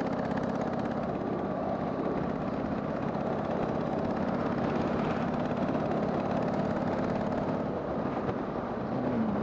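Harley-Davidson Sportster 883's air-cooled V-twin engine running steadily while riding, with a steady rush of wind and road noise. The engine note rises slightly near the end.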